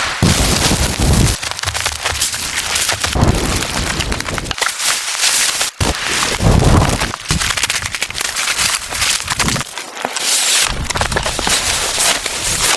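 Storm wind gusting against the microphone: a rough, loud hiss with crackling, broken by sudden cuts between clips.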